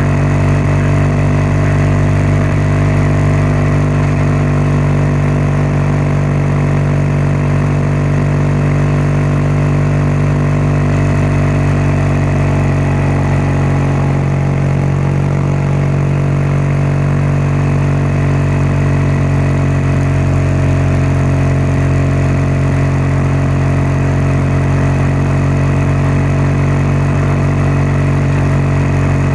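BMW R1200GS boxer-twin engine and exhaust running at a steady, even pitch, with a slight change in tone about halfway through.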